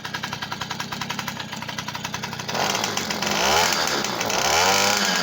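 V50 two-stroke moped engine, fitted with a Honda Dio piston, idling with a fast even putter, then revved up and down in repeated blips from about halfway through.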